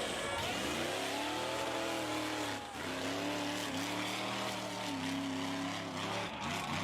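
Mud truck engine revving hard: the pitch climbs in the first second and holds high, drops briefly about two and a half seconds in, then climbs back and holds.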